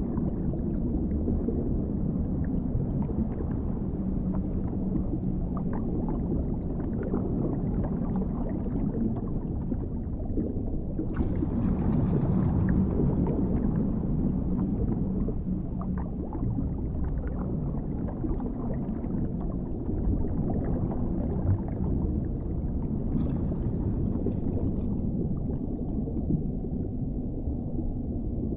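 Dark underwater ambience: a steady, muffled low rumble and wash, swelling brighter for a few seconds about eleven seconds in and again near the end.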